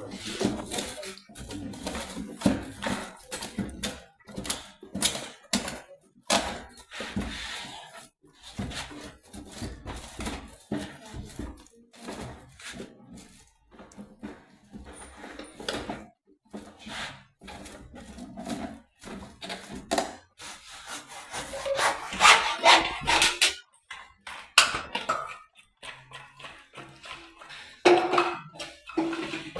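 Irregular knocks, clicks and clattering of plumbing fittings being handled and fitted together, with a louder run of handling noise about two-thirds of the way through.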